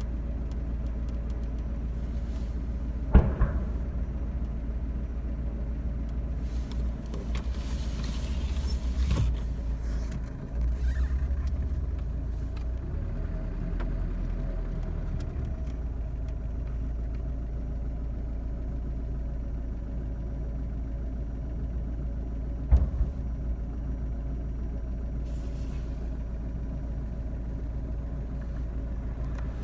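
Two explosions, each a single sharp bang, about 3 seconds in and about 23 seconds in, over a steady low rumble.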